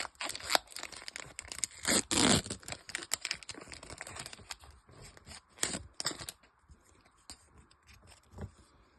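Foil wrapper of a Pokémon trading card booster pack being torn open and crinkled, with a string of crackles and rustles. The loudest tearing comes about two seconds in and again around six seconds, then quieter handling near the end.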